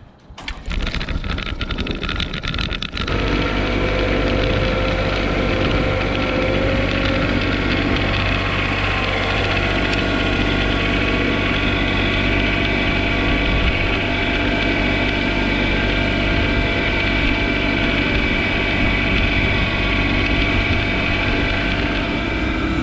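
Yanmar SA324 tractor's three-cylinder diesel engine being cranked by the starter for about two and a half seconds, then catching about three seconds in and running steadily.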